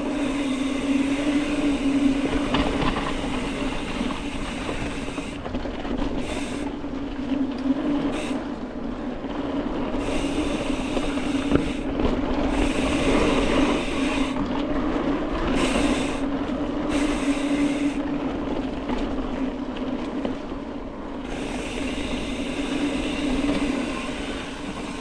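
Mountain bike rolling fast down a dirt trail: tyre noise on the dirt and a steady buzzing hum throughout, with rattle and wind noise on the bike-mounted camera.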